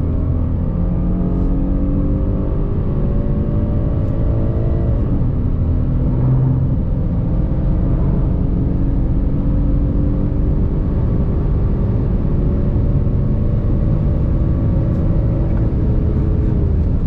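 Volkswagen CC's 3.6-litre VR6 engine pulling hard under acceleration, its pitch climbing slowly, with upshifts where the pitch drops at the start, about five seconds in and again near the end. A steady road and wind rumble runs underneath.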